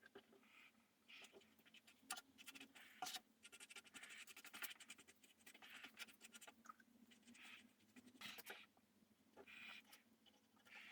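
Faint, irregular scratching strokes of hand work on wood, a few per second, with small clicks between them.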